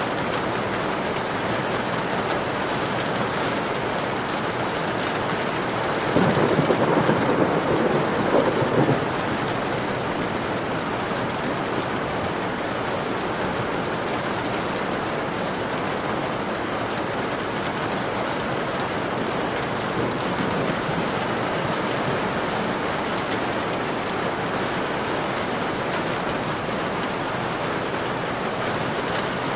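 Steady rain falling on a window, with a roll of thunder about six seconds in that lasts around three seconds.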